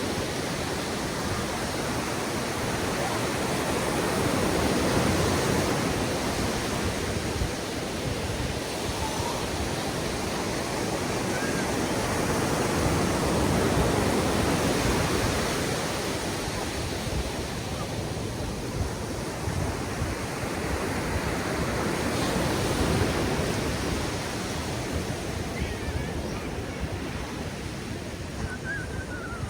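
Ocean surf breaking and washing up a sandy beach, a continuous rushing noise that swells and eases as waves come in, about three big swells.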